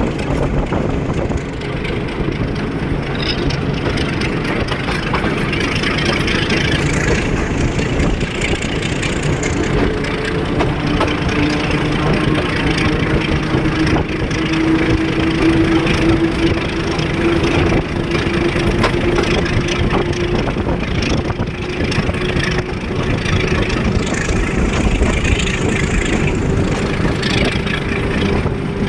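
Train running: a steady, loud rumble and rattle, with a faint tone that rises slightly in pitch through the middle.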